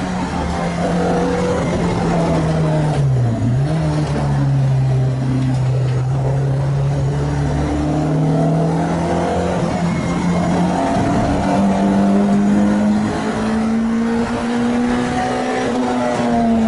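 Renault Clio 2 RS MiniCup's four-cylinder engine, freshly rebuilt and on its first test, pulling hard on track. Its note drops sharply about three seconds in, with a quick blip as it shifts down for a corner, then climbs steadily as it accelerates again.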